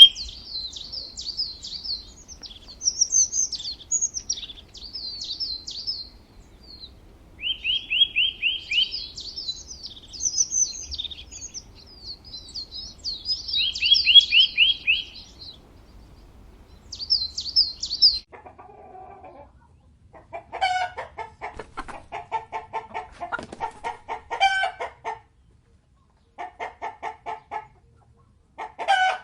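A small songbird singing a run of high chirps and quick trills, then, about two-thirds of the way through, a chicken clucking in short rapid runs.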